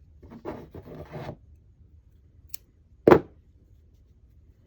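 Crochet work and yarn handled with a short rustling scrape, then a faint tick and one sharp knock a little after three seconds in.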